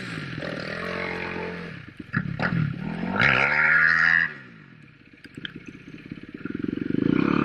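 Dirt bike engine revving up and down, its pitch rising and falling with the throttle, with a few sharp knocks about two seconds in. The engine drops away around the middle and comes back up steadily near the end.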